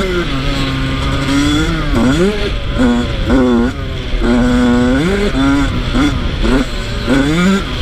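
Yamaha YZ85's two-stroke single-cylinder engine revving hard and falling off again and again as the throttle is worked, with a long held run near the start and a string of short rising blips through the rest.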